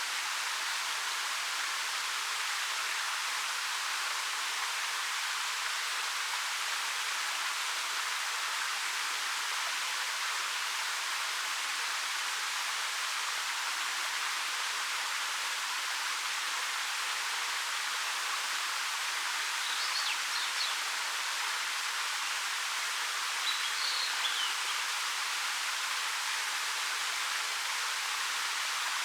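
Ariake Falls, a 13 m waterfall over dark rock, falling and splashing as a steady, even rush of water with little bass. A bird chirps faintly twice in the last third.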